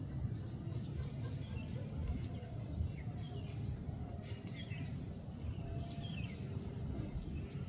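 Outdoor ambience: a steady low rumble with short, high bird chirps a handful of times, about every one to two seconds.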